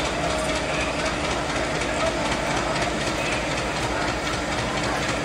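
Indian Railways passenger train rolling slowly, heard from inside the carriage: a steady running noise of wheels on the rails.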